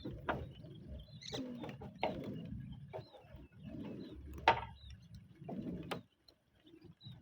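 Irregular knocks, clatter and scraping of roof tiles being shifted and handled during a roof repair, with the sharpest knock about four and a half seconds in. Short bird calls sound in between.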